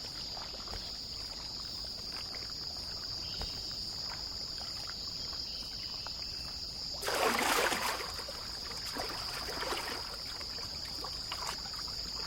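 A steady high insect drone over a trickling stream; about seven seconds in, an azure kingfisher plunges into the water with a splash lasting about a second, followed by a few smaller splashes.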